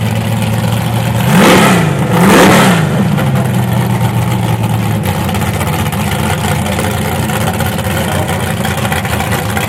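Drag-race Camaro's engine idling, blipped twice in quick succession about a second in, each rev rising and falling back, then settling to a steady idle.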